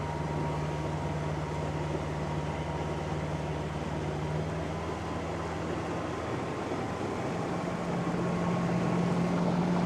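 Momentum M10 10-kilowatt electric outboard motor humming steadily under hard throttle, with wind and water rushing past the moving boat. Near the end the hum rises a little in pitch and grows slightly louder as the boat gathers speed.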